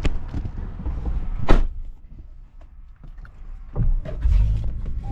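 A car door shutting with a single loud thunk about a second and a half in, among smaller knocks and rustles of someone settling into the car. Near the end the car's engine comes in as a steady low rumble.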